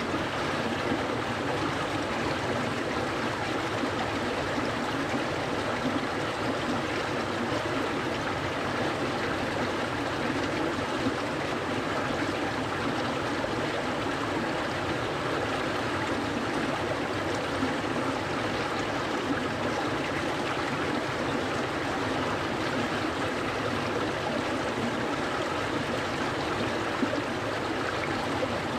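Clear, cold-water stream flowing: a steady, even rush of water.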